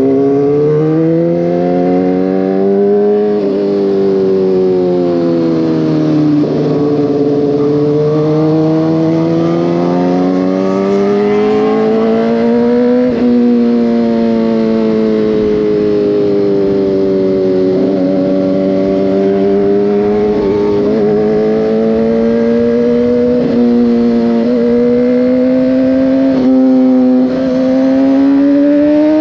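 Motorcycle engine heard from the bike while riding, its note climbing and sinking over several seconds at a time as the throttle is worked through the bends. Brief breaks in the note come with throttle changes or gear shifts.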